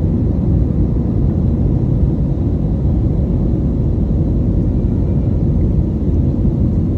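Airplane noise: a loud, steady low rumble of engines and airflow, with a faint hum over it.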